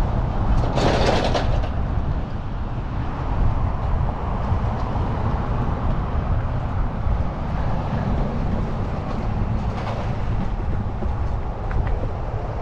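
Steady low rumble of wind and road noise on the microphone during a bike ride, with a brief louder rush about a second in and a fainter one near ten seconds.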